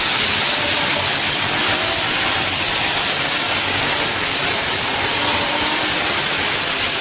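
Competition pulling tractor's engine running flat out: a steady loud roar with a thin, high, steady whine over it.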